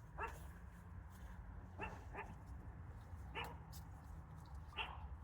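Wild turkeys giving short calls: five brief notes, one or two at a time, spaced about a second or so apart.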